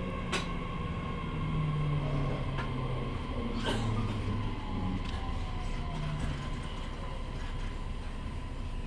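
E501 series electric train decelerating in the last seconds before a station stop, heard from inside the car: running noise with the traction motors' whine slowly falling in pitch, and a couple of sharp clicks from the wheels over the track.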